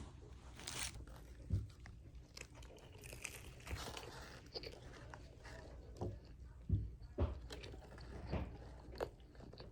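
A person biting into and chewing a bagel close to the microphone, with irregular crunches and soft knocks between quieter chewing.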